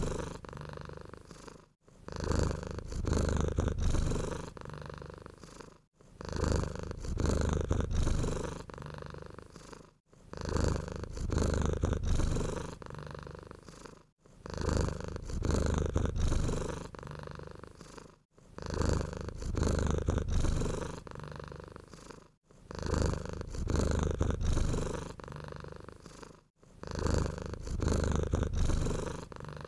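Domestic cat purring, a low rumble that swells loud and then fades in even cycles about every four seconds. Each cycle is the same and a brief gap separates them, as in a short purr recording looped.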